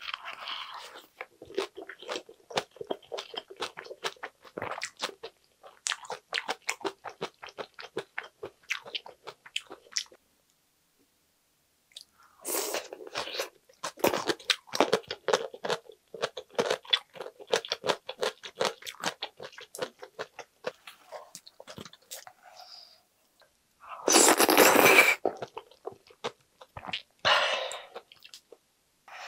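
Close-miked eating: crunching and chewing through a lettuce wrap of spicy stir-fried pork intestines and vegetables, with many short crackles. The eating stops for about two seconds partway through and then resumes. Near the end there is a louder burst of noise about a second long.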